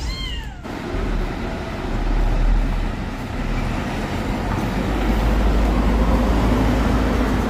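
A cat meows once at the very start, a short call rising then falling in pitch. After it comes a loud, steady, low rumbling noise with hiss.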